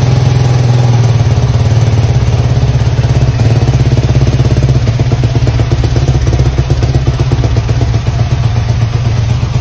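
Motorbike engine running close by with its check engine light on: a loud, steady low hum with fast, even pulsing.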